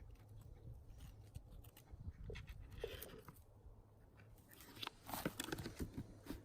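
Faint crunching and rustling of twigs, needles and leaf litter on a forest floor, with scattered small cracks that grow busier near the end.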